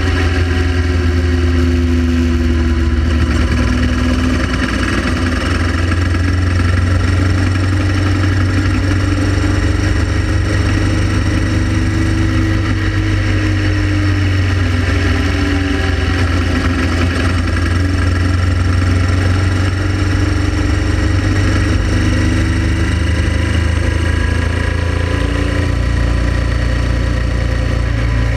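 Honda Transalp XL700V's V-twin engine running steadily under way, with a heavy, constant low rumble and an engine note that drifts slowly up and down.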